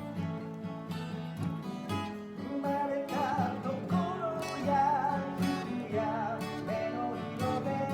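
Acoustic guitar strummed in a steady rhythm, with a wavering higher melody coming in over the chords about three seconds in and fading near the end.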